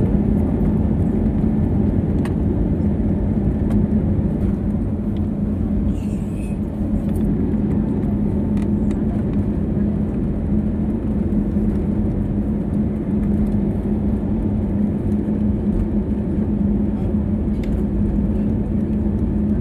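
Airplane engines running during takeoff: a steady low rumble with a constant hum.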